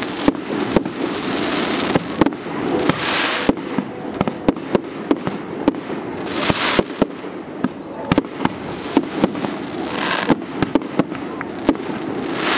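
Fireworks going off: an irregular, rapid string of sharp bangs and pops, several a second, over a constant rushing noise with brief hissing swells.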